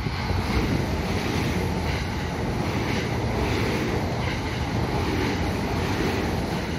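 A JR West 225-series electric train passing through the station at speed, a steady rush of wheels on rail and moving air, with wind buffeting the microphone.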